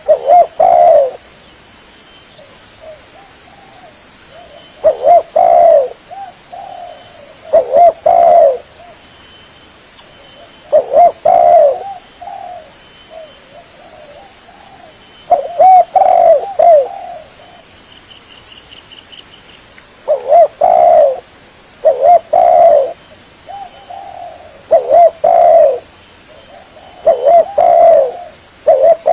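Spotted dove (tekukur) cooing: a short phrase of a few low, mellow notes repeated about ten times, every two to five seconds, each followed by softer trailing coos.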